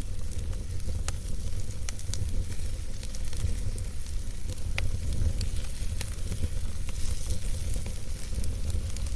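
Campfire crackling, with frequent sharp pops and snaps scattered over a steady low rumble.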